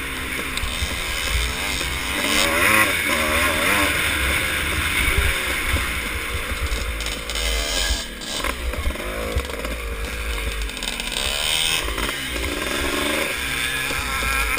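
Vintage motocross motorcycle engine revving hard and backing off again and again, its pitch climbing and dropping, over a steady low rumble.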